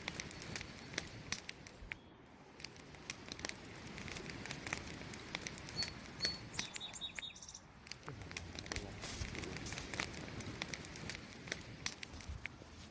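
Wood campfire burning with steady irregular crackling and popping over a low rush of flame. A couple of brief high chirps sound near the middle.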